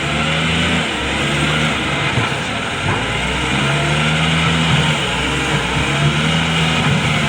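Doosan DX140W wheeled excavator's diesel engine running under working load, its pitch stepping up and down as the hydraulics are worked.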